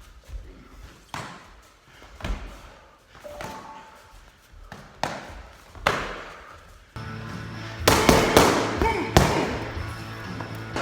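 A handful of single heavy thuds, spaced a second or so apart. About seven seconds in, loud music starts, with hard hits over it.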